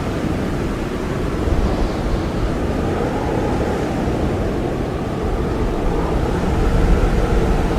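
Blizzard wind blowing steadily, a dense low rush that swells slightly about a second and a half in and again near the end.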